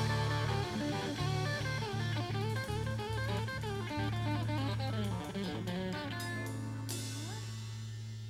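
Blues-rock band playing: electric guitar running quick lines over a steady low bass note and drum kit.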